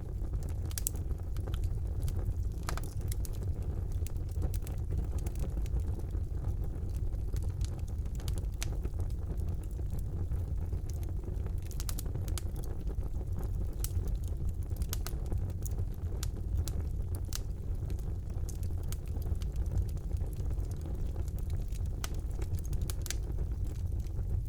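Wood fire burning in a fireplace: a steady low roar of the flames with irregular sharp crackles and pops.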